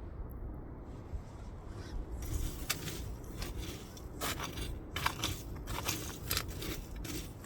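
Wood fire burning, with irregular sharp crackles and pops starting about two seconds in, over a steady low rumble.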